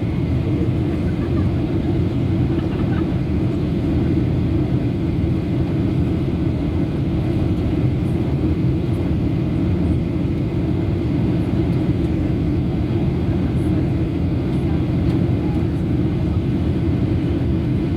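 Steady jet engine and airflow noise heard inside an airliner's cabin in flight, a constant low rumble.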